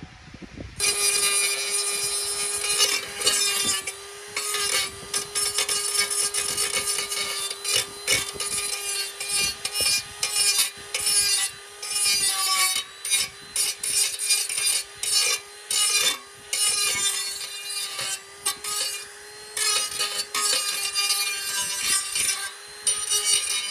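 A small power tool running with a steady whine while it grinds or sands a workpiece, the scraping coming in rapid bursts with brief breaks.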